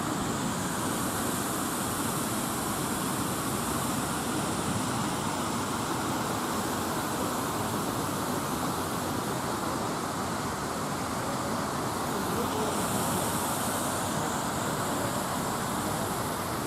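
Steady, even rushing noise of a city street at night, with stretches of brighter hiss about a second in and again near the end.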